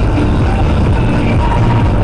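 Steady car engine and road noise, a continuous low rumble with no impact.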